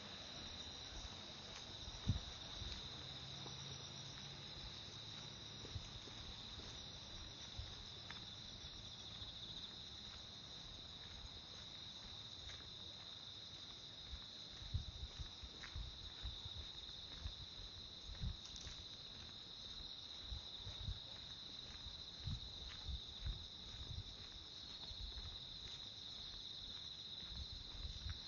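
A steady, high-pitched chorus of insects chirring. Soft low thumps come in now and then, more often from about halfway through.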